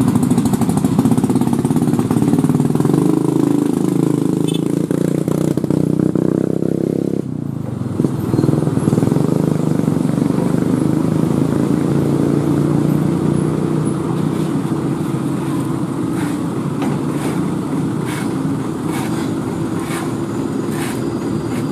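Engine running steadily. Its sound changes abruptly about seven seconds in, and there is a series of short clicks or knocks near the end.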